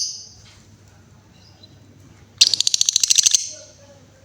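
Female lovebird giving a shrill high call at the very start, then, about two and a half seconds in, a rapid trill of clicking chirps lasting about a second: the trilling 'ngekek' call that lovebird keepers prize.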